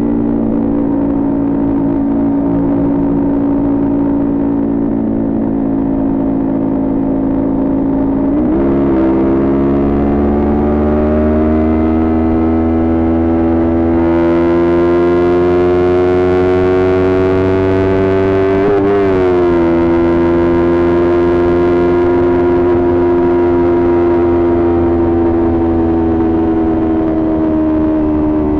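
Kawasaki Ninja 400 parallel-twin engine with a Coffman aftermarket exhaust running under way. There is a quick shift about eight seconds in, then the pitch climbs slowly as the bike speeds up. A brief dip comes about two-thirds through, and the engine then holds a steady note with wind rushing over the bike.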